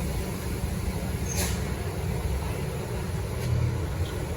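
Heavy truck's diesel engine running with a steady low rumble, with a short sharp hiss about a second and a half in.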